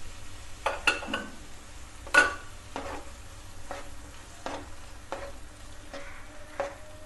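Chopped tomatoes, onions and green chillies sizzling in oil in a nonstick frying pan while a spatula stirs them, its strokes against the pan sounding about once a second, the loudest about two seconds in.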